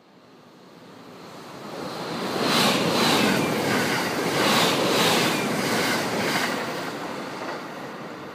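Electric limited express train passing close by: a rising rush of wheel and air noise with a run of regular clacks from about two and a half to six and a half seconds in, then fading as the train runs away.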